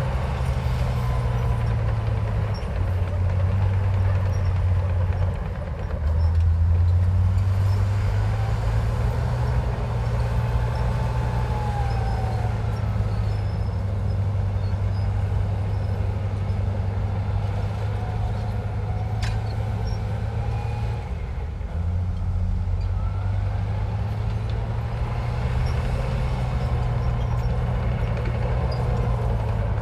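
Heavy diesel engine of earthmoving machinery running under load. Its low note shifts up and down every several seconds, with faint higher whines gliding over it and a single click about 19 seconds in.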